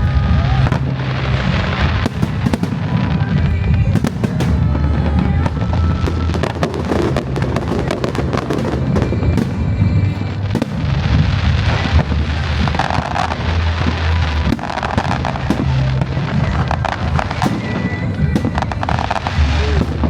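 Fireworks display: many bangs and crackling bursts in quick succession, over loud music with a heavy bass.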